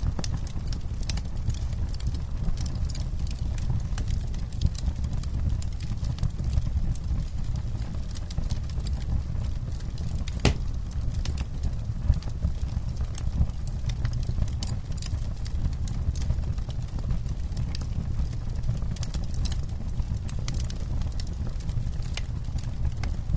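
Wood campfire crackling, with irregular sharp pops and snaps over a low steady rumble; one louder pop about halfway through.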